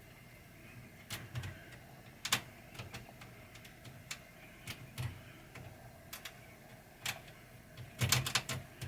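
Scattered light clicks and taps of a screw and screwdriver against metal parts as a screw is tried in a threaded hole that it is not catching. A quick run of clicks comes near the end.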